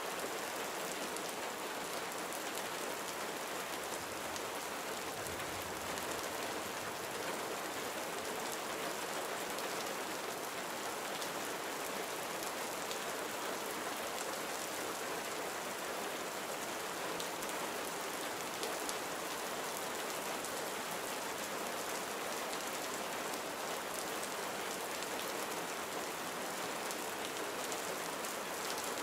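Steady gentle rain, with a soft even hiss of many small drops falling on a surface.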